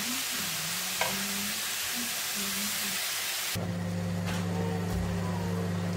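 Vegetables sizzling in a hot metal pan as they are stirred with a wooden spoon, with one sharp tap about a second in. A little past halfway the sizzle cuts off abruptly and a steady low hum remains.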